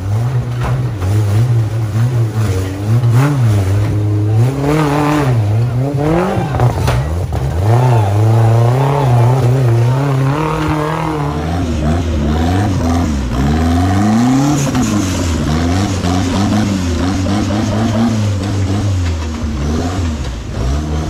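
A 4x4 vehicle's engine revving up and down under varying throttle, its pitch rising and falling repeatedly.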